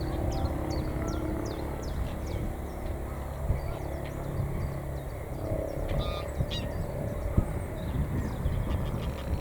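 Wild birds calling in a wetland: a rapid run of short, high, falling chirps over the first two seconds or so, then scattered calls, over a steady low rumble.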